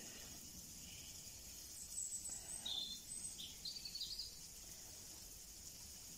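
Woodland birds giving a run of short, high chirps and calls about two to four seconds in, over a faint steady high-pitched hiss of outdoor background.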